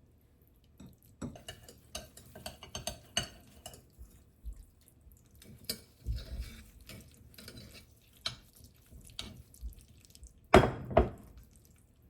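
Kitchen handling sounds: a scatter of light clicks and knocks from dishes and utensils, with two louder knocks close together near the end.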